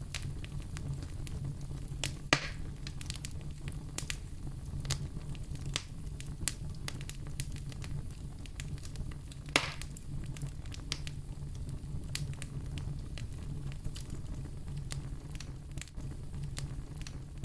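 Wood fire in a fireplace crackling steadily: a dense run of sharp snaps and ticks over a low, even rumble of the flames, with two louder pops, one about two seconds in and one a little past the middle.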